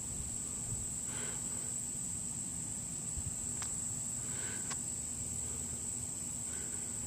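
Insects singing in a steady high-pitched drone, with a couple of light clicks midway.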